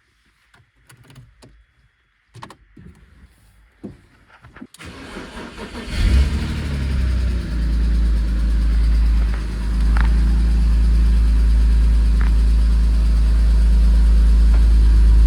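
BMW E46 engine cranking and starting about six seconds in, then running steadily at idle through its freshly refitted exhaust, a sound called perfect, with no leak heard. Before it, a few faint clicks and knocks.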